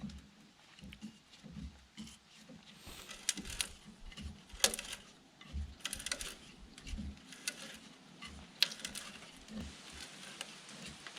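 Irregular light knocks, taps and low thuds, a few each second, with two sharper clicks about halfway through and again near the end.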